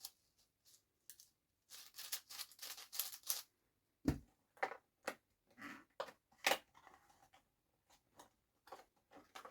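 Plastic speedcube being handled and its layers turned: a quick run of sharp plastic clicks and snaps about two seconds in, then scattered single clicks and knocks.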